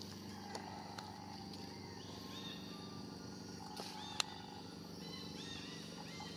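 Forest ambience: a bird's short arched chirps in two quick runs, over a steady low hum. A few sharp clicks sound, the loudest a single snap about four seconds in.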